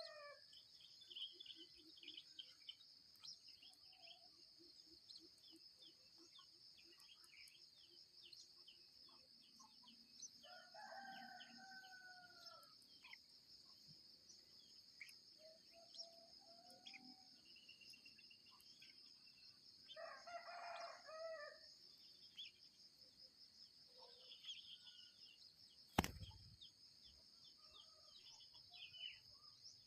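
Faint roosters crowing three times, over scattered small bird chirps and a steady high drone of insects. A single sharp knock comes near the end.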